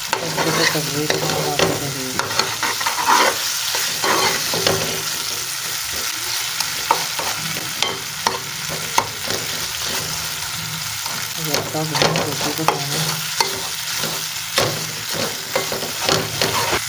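Tomato-and-chilli masala sizzling in oil in a metal pot while a steel spoon stirs it, with frequent sharp clicks and scrapes of the spoon against the pot.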